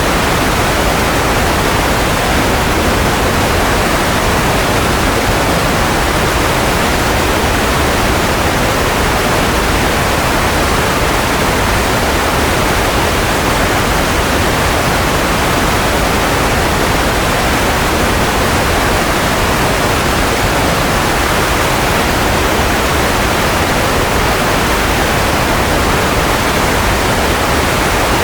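Steady white noise: an even, unbroken hiss that never changes.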